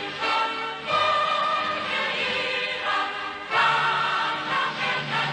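Music with a choir singing held chords that change about every second.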